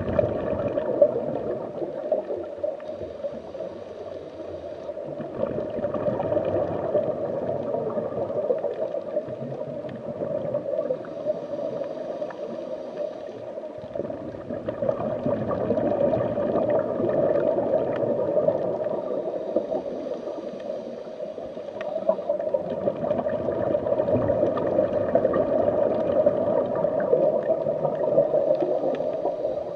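Continuous underwater gurgling and rushing of water in an aquarium tank, swelling and easing every several seconds.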